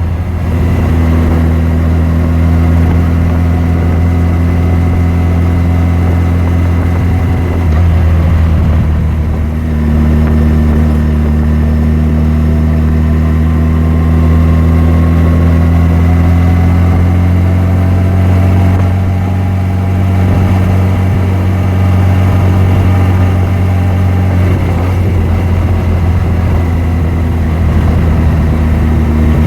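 Yamaha FJR1300's inline-four engine running at steady low revs while riding; the pitch drops briefly about eight seconds in, then picks up again and holds.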